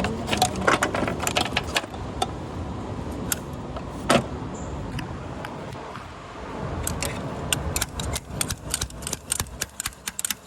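Metal tools and parts clinking and tapping while fuel injectors are pulled from a Range Rover 5.0 V8, with a rapid run of clicks in the last few seconds.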